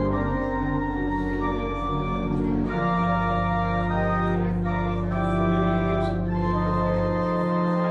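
Organ playing slow, sustained chords that change every second or two, with a held bass note that drops out near the end.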